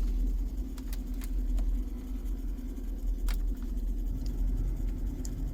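A few sharp, light clicks of SUV climate-control buttons being pressed, over the steady low hum of the 2011 GMC Yukon Denali's cabin with the engine running.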